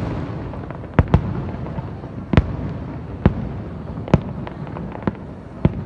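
Fireworks display: sharp aerial shell bursts going off irregularly, about eight bangs, over a continuous low rumble of further explosions.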